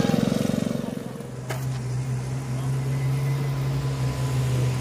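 A small engine on a miniature antique-style car buzzes as it drives off and fades. About a second in, after a cut, a classic Ford Mustang's engine runs with a steady low hum as the car rolls slowly forward, with a short click shortly after the change.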